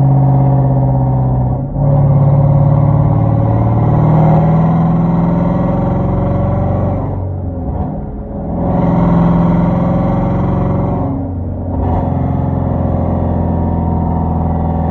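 Exhaust of a Genesis 5.0 sedan's V8, straight-piped and catless with Flowmaster Super 10 mufflers, under way. The engine pulls up in pitch and drops briefly at each gear change, three times, then holds a steady drone near the end.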